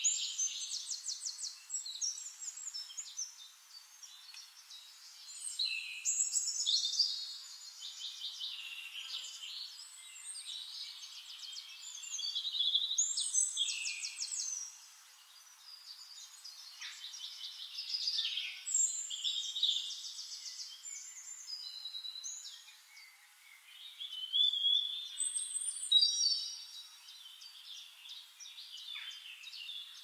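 Songbirds singing over one another: quick high-pitched trills, chirps and short gliding whistles that come and go in loudness.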